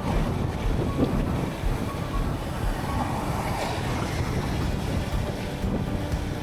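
Wind rushing over the microphone and road noise while riding an electric motorcycle at speed, a steady low rumble with no engine note.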